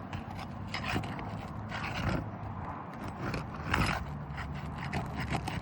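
Irregular scraping and clicking of work on roof shingles, with a few louder scrapes about a second, two seconds and nearly four seconds in, over a steady low hum.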